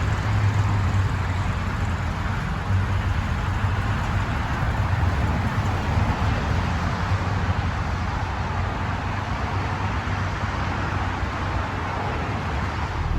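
A car engine running steadily at idle over a broad hiss.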